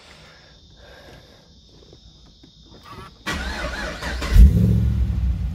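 Holden VF Commodore SS's 6.2-litre LS3 V8 being started: about three seconds in the starter cranks for about a second, the engine catches with a loud flare of revs, then settles into a steady low idle.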